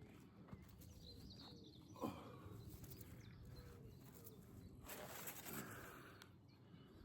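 Near silence: quiet outdoor ambience with a few faint bird chirps, a brief falling sound about two seconds in, and a short rustle around five seconds.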